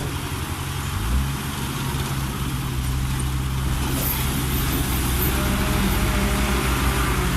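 Heavy diesel engine running steadily. It revs up about a second in and then holds under load.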